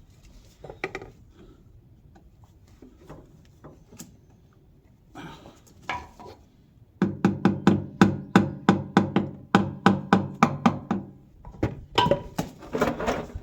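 Rapid tapping on the clean-out plate under a 1913 Richard Hornsby portable engine's fuel tank to work it loose, a fast, even run of sharp ringing knocks, about five a second. A shorter burst of knocks follows near the end, after a few scattered clicks and a brief scrape earlier on.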